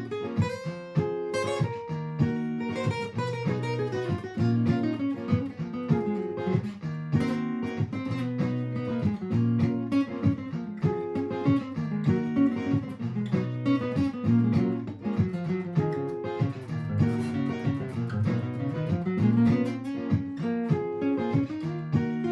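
Martin GPCPA4 acoustic guitar played through a looper: a repeating strummed chord loop underneath, with single-note improvised lines and slides on top.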